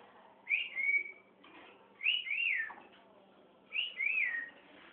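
Cockatiel whistling three short phrases, each a clear rising note followed by a held or falling one.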